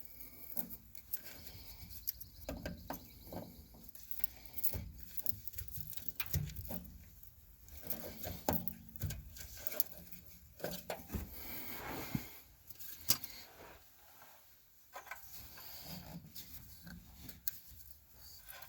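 Irregular clicks, knocks and scraping from hands and tools working the oil filter loose under the truck.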